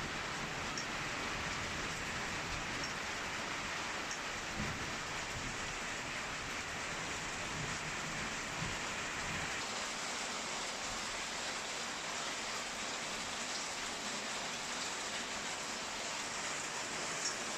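Steady heavy rain hissing during a thunderstorm, with the low rumble of thunder dying away over the first ten seconds or so.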